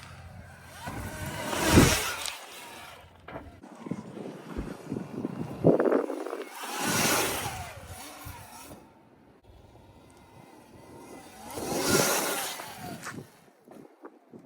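Sur-Ron electric dirt bikes riding past three times, each pass a swell of noise that rises and falls away. A single sharp knock a little before the middle.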